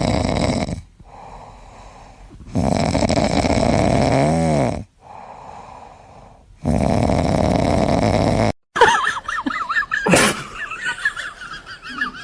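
A pet snoring heavily, three long rasping snores about four seconds apart. About nine seconds in the sound changes to a busier stretch of warbling, squeaky calls with a sharp knock.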